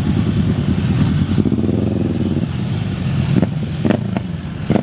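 Car engine revving hard, loud and rapidly pulsing, its pitch rising and falling about two seconds in, with a few short sharp sounds between three and a half and four seconds in.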